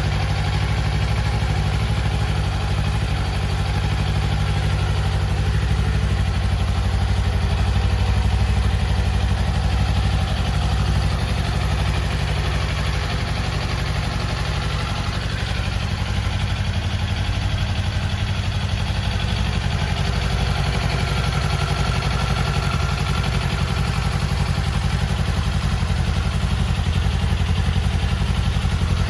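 Kawasaki Eliminator 400 SE's 398 cc parallel-twin engine idling steadily.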